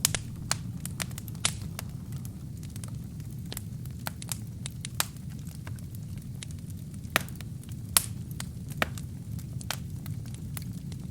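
Wood fire burning: a steady low rumble of flames with frequent sharp, irregular crackles and pops from the burning logs, a few louder pops at the very start and around seven and eight seconds in.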